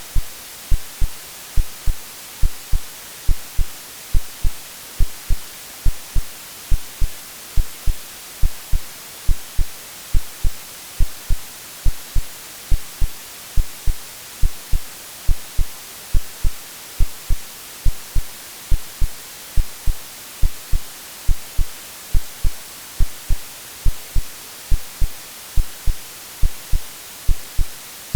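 Synthetic, AI-generated heartbeat of steady low double thumps (lub-dub) over continuous white noise, a hiss strongest in the high frequencies. It is made to resemble the sounds a baby hears in the womb.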